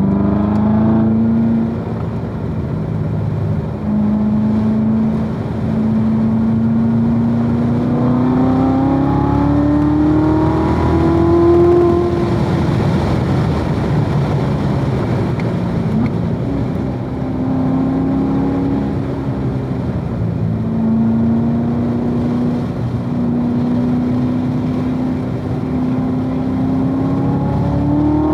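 2016 Corvette Z06's supercharged 6.2-litre V8 being driven hard on track. The engine note climbs under acceleration, drops back briefly several times at shifts or lifts, then climbs again.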